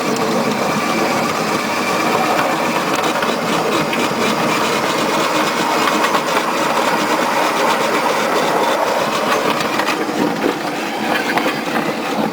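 Small 15-inch gauge backyard electric tram running along its track, heard from on board: a steady rumble of wheels on the rails with occasional clicks.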